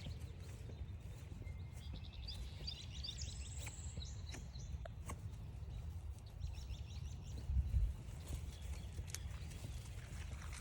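Wild birds chirping and singing in woodland: a quick run of short notes and a high trill in the first few seconds, then scattered chirps. Under them is a steady low rumble, which swells briefly about eight seconds in.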